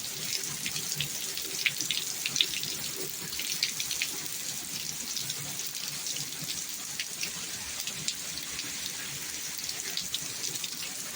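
Heavy rain pouring down: a steady wash of noise with many small drop spatters throughout.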